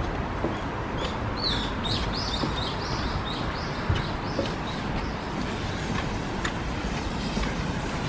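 A songbird calling a quick run of short high chirps, about three a second, from about a second in until about five seconds in, over a steady background hiss.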